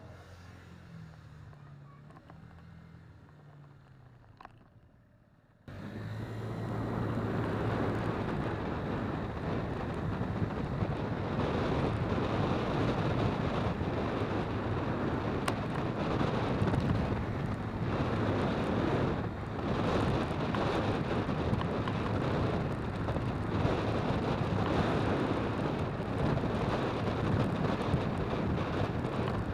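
Faint low hum, then from about six seconds in a loud, steady roar of a jet airliner's engines close overhead.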